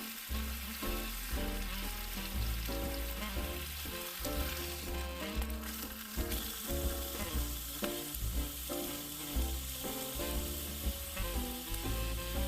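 Steak sizzling in a pan over a campfire, a steady crackling hiss, under background music with a pulsing bass line.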